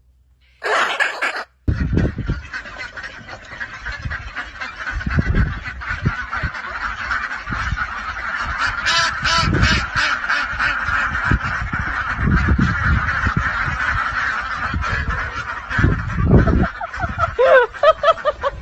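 Birds calling continuously as a loud, dense chorus. It is preceded by a short separate burst about half a second in that cuts off abruptly. Low thumps run through it, and single pitched calls stand out near the end.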